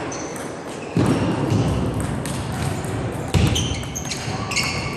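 Table tennis ball clicking sharply off the table and rubber-covered bats, each hit with a short ringing ping, the hits coming faster near the end. Heavy low thumps land about a second in and again a little after three seconds.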